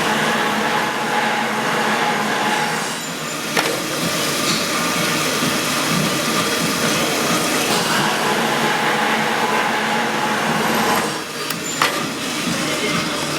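A power drill running steadily, easing off briefly with a click twice.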